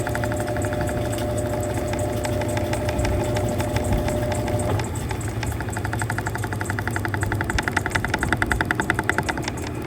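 Mueller Popmatic 8 kg washing machine running: a steady motor hum with fast, even rattling. A steady whine cuts off about halfway through, and the rattling gets stronger near the end.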